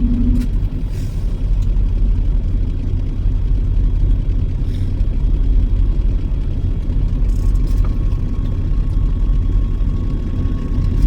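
Heavy truck on the move: a steady, loud low rumble of engine and road noise.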